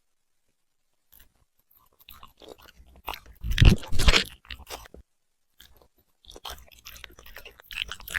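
Puppy chewing and crunching food in irregular bites, starting about a second in, loudest around the middle, with a short pause before the chewing resumes.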